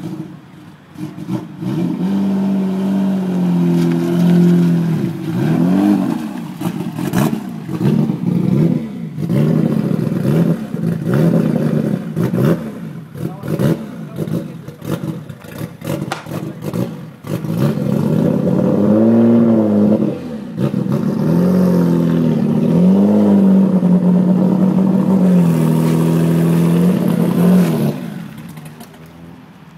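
Nissan Skyline Group A racing car's turbocharged straight-six engine being revved in repeated throttle blips, pitch swooping up and falling back each time. It then holds a steady raised idle for a few seconds before dropping away near the end.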